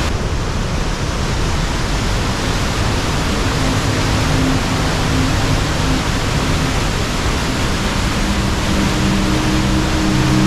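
Loud, steady rush of a fast river's water. Low sustained background music notes come in faintly a few seconds in and grow stronger near the end.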